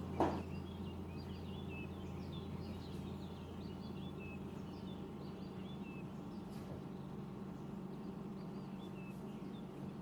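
Small birds chirping over and over over a steady low hum, with a single sharp knock just after the start.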